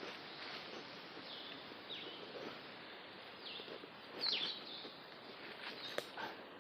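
Birds calling in the background: a series of short calls that drop in pitch, repeated at irregular intervals over a faint outdoor hiss. A single sharp click comes about six seconds in.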